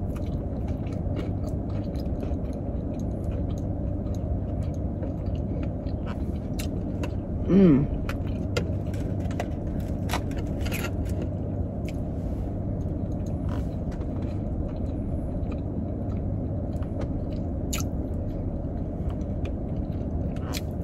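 A person chewing fried chicken, with scattered sharp mouth clicks and smacks, over the steady low hum of a car running inside its cabin. There is one short hummed "mm" nearly eight seconds in.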